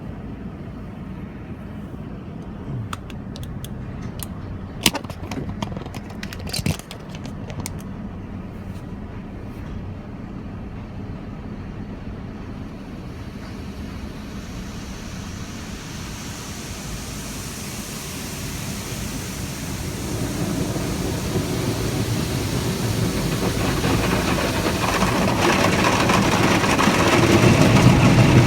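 Automatic drive-through car wash machinery heard from inside the closed car cabin. A steady low hum with a few knocks and clicks in the first several seconds gives way to a hiss that grows steadily louder through the second half as the wash reaches the car.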